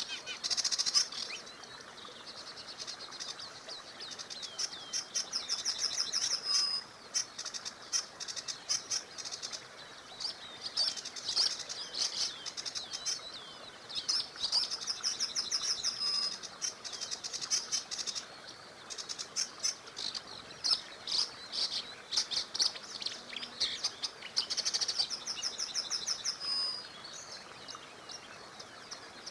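Songbirds singing: high, rapid trilled phrases about two to three seconds long, repeating every few seconds, over a faint steady background hiss.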